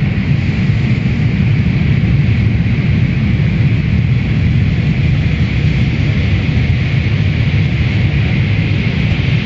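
Automatic car wash machinery running: a loud, steady rush with a deep rumble underneath.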